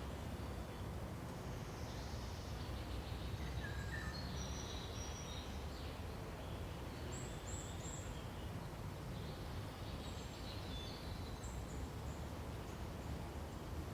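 Forest ambience: scattered short, high bird chirps and calls over a steady low rumble.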